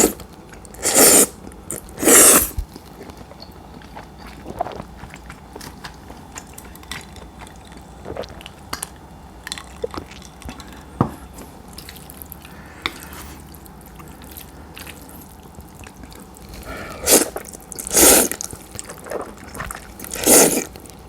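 A person slurping chilled udon noodles in short loud bursts: twice near the start and three times near the end. Soft chewing and small wet clicks fill the stretch in between.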